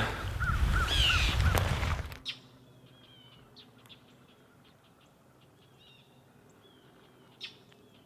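Birds calling outdoors: a quick run of short repeated calls over a low rumble, which stops suddenly about two seconds in. What is left is a faint hush with scattered soft high chirps and a single click near the end.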